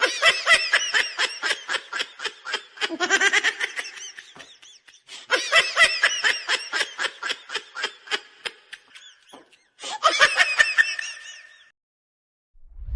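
Loud, rapid ha-ha-ha laughter in three long bouts with short pauses between them.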